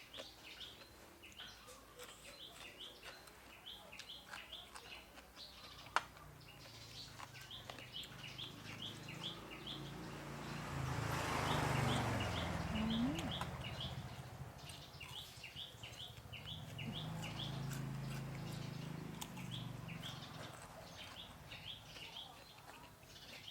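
Small birds chirping in quick repeated notes, several a second, throughout. A broad rushing swell rises to the loudest point about halfway through and fades, and there is one sharp click about six seconds in.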